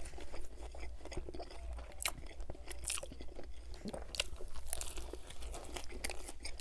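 A person chewing a mouthful of chicken club sandwich with bun, bacon and lettuce, close to the microphone: an irregular run of short crunching clicks and mouth sounds.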